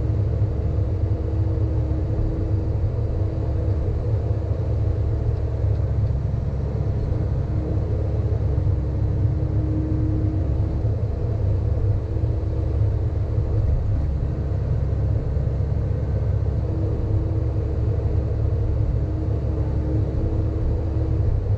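Sany excavator's diesel engine running steadily under work, a low rumble, with a faint tone that comes and goes.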